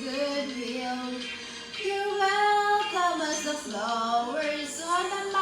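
A female voice singing a melody without clear words, holding some notes for about a second and sliding up and down between others.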